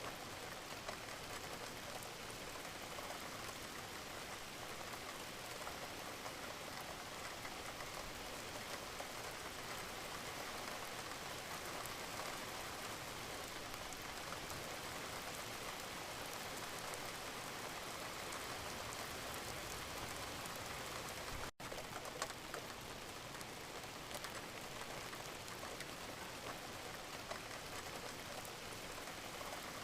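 Steady gentle rain, a fine patter of drops over an even hiss. It cuts out for an instant about two-thirds of the way through.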